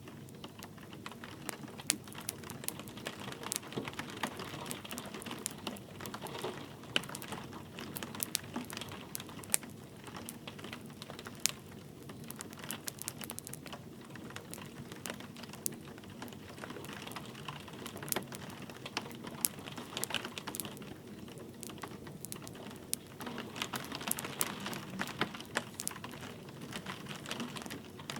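Wood fire crackling with frequent irregular sharp snaps and pops, over a steady hiss of light rain.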